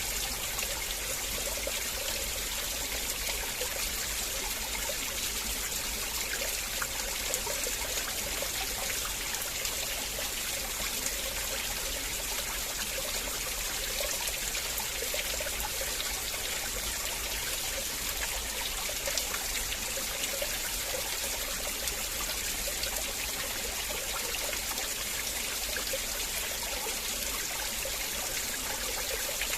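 River water flowing in a steady, even rush, with a fine trickling and splashing texture.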